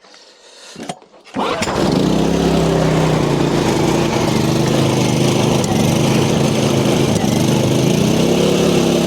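Hyundai HY3000SEi portable generator's small petrol engine starting about a second in, then running steadily: it fires up again after its varnish-blocked carburettor jets were cleaned.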